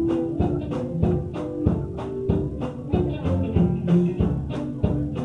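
Live gospel church band vamping: a drum kit keeps a quick, steady beat under bass and held instrument notes.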